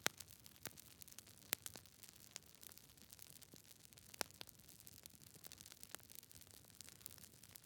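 Close campfire crackling: irregular sharp pops and snaps over a soft hiss of burning wood, with the loudest pops about one and a half and about four seconds in.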